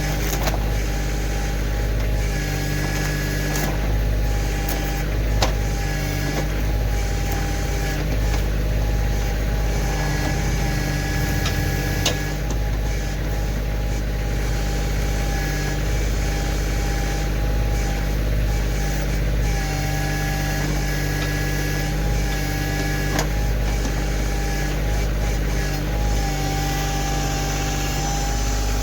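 Kioti CK2610 compact tractor's diesel engine running steadily while working the backhoe, with higher tones that come and go and a few sharp knocks.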